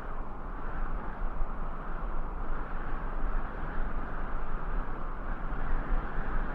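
Steady rushing noise with a deep low rumble, wavering slightly in loudness, with no distinct events.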